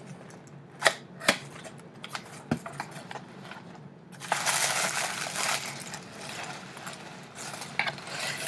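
A gift box being opened by hand: a few sharp clicks and taps, then, about four seconds in, a couple of seconds of paper crinkling and rustling.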